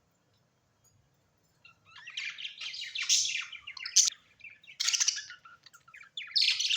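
Bird chattering in a rapid run of warbling chirps, followed by a few sharper separate calls, after a short quiet start.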